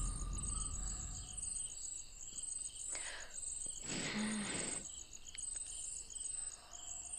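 Crickets chirping in a steady, even rhythm of high trills, about two chirps a second. A couple of soft rustling noises come in the middle, and the tail of the preceding music dies away at the start.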